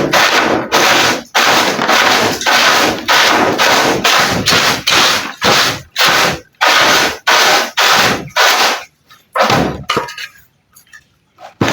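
Loud, rough scrubbing strokes on a poultry cage, about one and a half a second, as it is cleaned out after the droppings have been removed. The strokes thin out and pause briefly near the end.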